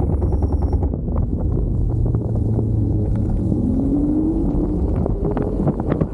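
Wind buffeting the microphone on a moving Kaabo Wolf King GT Pro electric scooter, over a steady low rumble with scattered knocks. A little past halfway through, a rising whine comes in as the scooter's motor speeds up.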